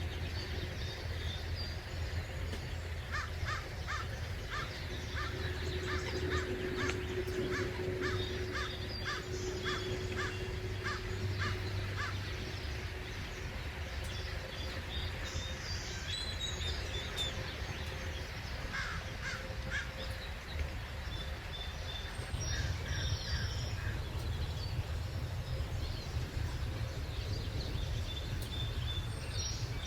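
Wild birds calling: a quick run of short, harsh calls, about two a second, for several seconds, then scattered higher chirps, over a low steady rumble.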